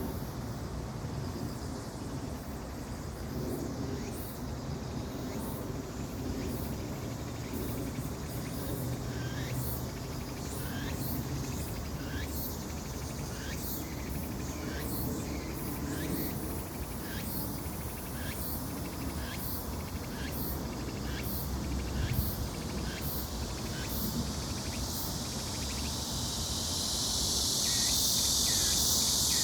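Outdoor insect sounds: short high chirps repeat about once a second over a low steady rumble. Near the end a dense, high insect buzz swells in and holds.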